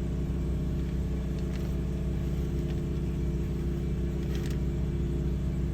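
Sewer water jetter's engine running steadily, a constant low drone, as it pushes water through a clogged sewer line.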